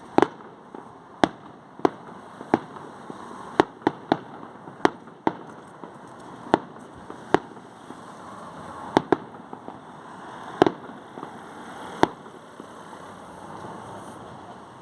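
Fireworks going off: about fifteen sharp bangs at irregular intervals, some in quick pairs, over a steady background hiss. The bangs stop near the end.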